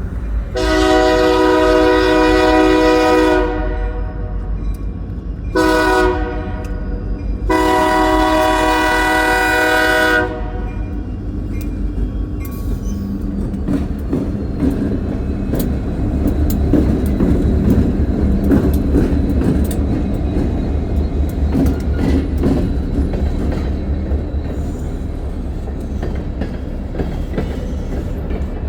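Diesel locomotive horn sounding a long, a short and a long blast, the end of a grade-crossing signal. The train then rolls past with a steady engine rumble and the wheels clicking over the rail joints.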